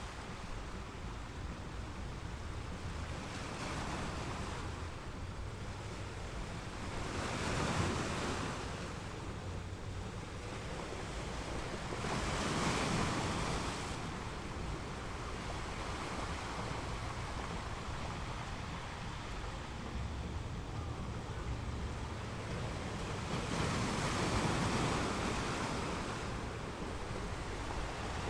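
Small waves breaking and washing on a beach, the surf swelling three times over a steady low rumble.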